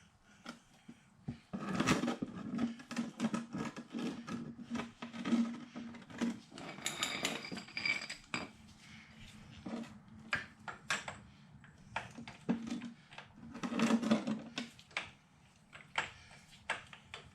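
Irregular metallic clinks and clicks of a socket, ratchet or wrench working at a motorcycle's oil drain plug, with a brief ringing clink about halfway through.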